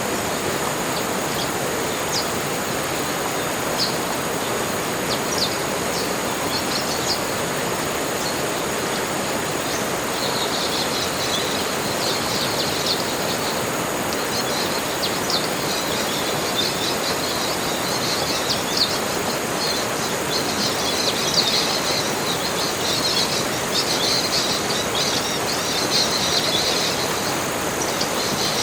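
Tropical forest ambience: many small birds chirping and twittering in quick high notes, thicker from about ten seconds in, over a steady rushing hiss and a thin steady high tone.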